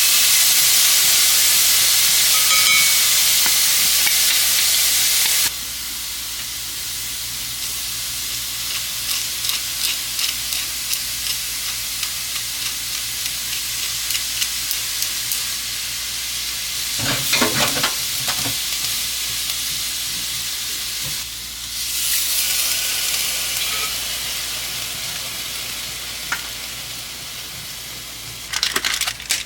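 Food sizzling and crackling in a hot pan: a loud, steady hiss for about the first five seconds that drops suddenly, then softer frying with many small pops, a short burst of utensil scraping just past the middle, and a brief swell of sizzle a few seconds later.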